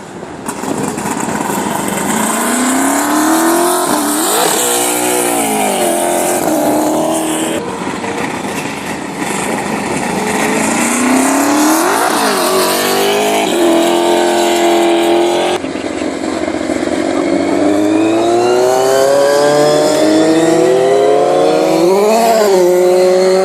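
V8 Supercars race cars accelerating hard away from pit exit, one after another. Each V8 engine's pitch climbs steeply, dips briefly at a gear change, then climbs again.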